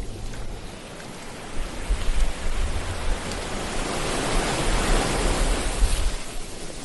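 Ocean surf washing onto a beach: a wave's hiss swells over a few seconds, is loudest past the middle, then fades away. Low wind rumble on the microphone at the start.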